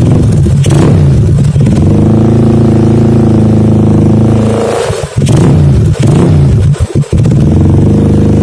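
Motorcycle exhaust through a CKC aftermarket silencer as the engine is revved. It climbs and holds high for a couple of seconds, drops off about five seconds in, then comes a few quick throttle blips and a rise near the end.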